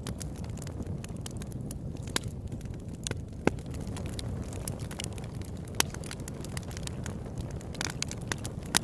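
Campfire burning: a steady low rumble of the flames with frequent sharp crackles and pops from the wood, a few louder pops about a third of the way in, past the middle and near the end.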